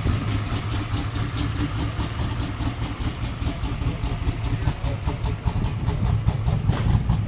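Camaro engine idling with a choppy, lopey idle, the rhythmic pulsing typical of an aggressive camshaft.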